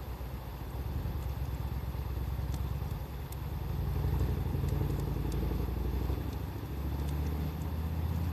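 Wood fire crackling with sparse sharp pops, over a loud steady low rumble that swells about halfway through.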